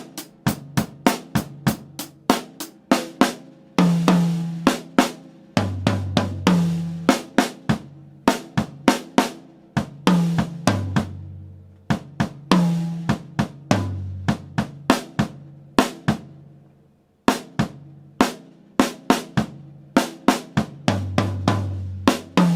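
Drum kit playing an exercise at 100 bpm: a steady run of snare, bass drum and hi-hat strokes, broken every few seconds by notes moving between a higher tom and a floor tom, with cymbal crashes.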